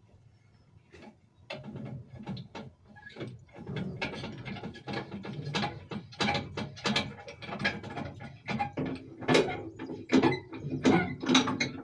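Rapid ratchet-like metallic clicking and knocking from hand-tool work on a narrowboat engine during alignment. It starts about a second and a half in and gets busier and louder towards the end.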